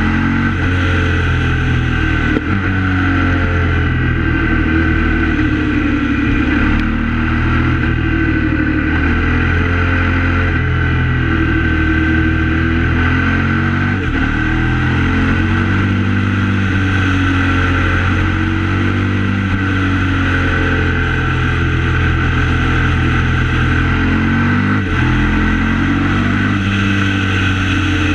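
KTM 950 SMR's V-twin engine running under way, its revs rising and falling through the bends, with a few short dips in sound.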